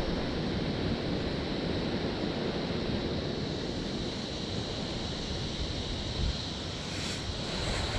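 Steady wind rush and low buffeting on the microphone of a moving motorcycle.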